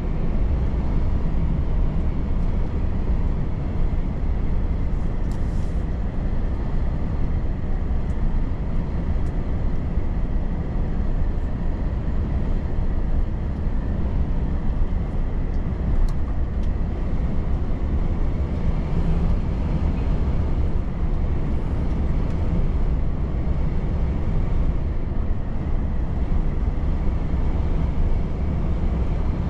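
Volvo FH truck on the move: a steady drone of engine and road rumble, heaviest in the low end.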